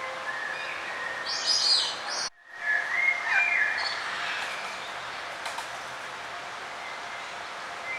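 Several songbirds chirping and singing in short phrases over a steady background hiss of outdoor ambience. The whole sound cuts out for a split second about two seconds in, then the birdsong resumes.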